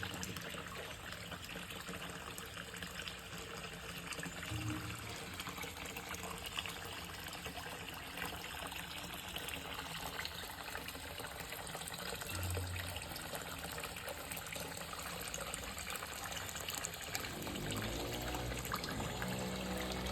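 Water falling and trickling steadily, as from a small waterfall. A pitched sound, likely music, comes in near the end.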